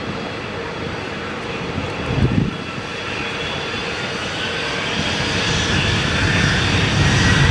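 Jet airliner engines at takeoff power, a steady noise that grows louder over the last few seconds, with a faint rising whine. A brief low thump about two seconds in.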